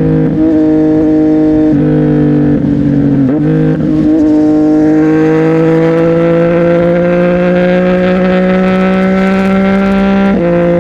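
CFMOTO 675NK's inline-three engine with a Burnout titanium exhaust, ridden under load. The pitch shifts a few times in the first four seconds, then climbs steadily through one gear and drops abruptly near the end with an upshift.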